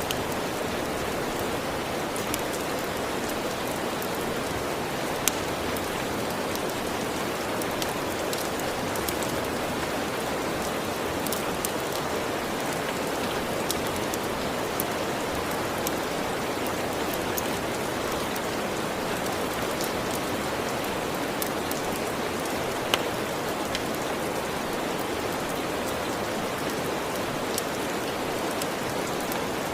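Steady, even rain with scattered sharp clicks, two of them louder, about five seconds in and near twenty-three seconds.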